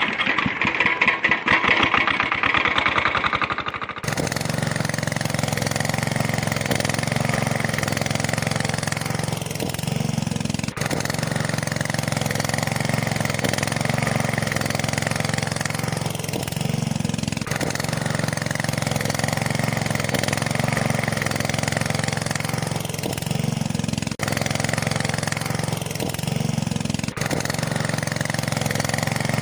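A fast, buzzing rattle for about the first four seconds, then an engine running steadily at idle, its note shifting briefly every several seconds.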